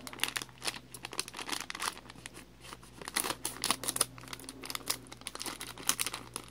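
Crinkling and tearing of a Pocky snack wrapper as it is opened, a run of quick irregular crackles.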